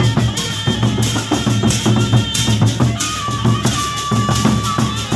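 Gendang beleq ensemble playing: big Lombok barrel drums beating a fast, dense rhythm under clashing cymbals, with a high steady tone held for about two seconds in the second half.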